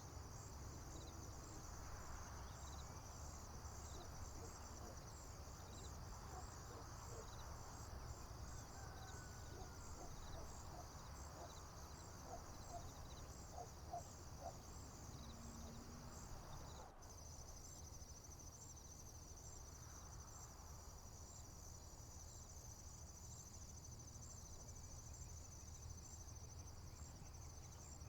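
Steady chorus of crickets and other insects: a high, pulsing trill that switches abruptly to a faster, even trill about two-thirds of the way through. Faint scattered bird chirps sit in the middle, over a low rumble.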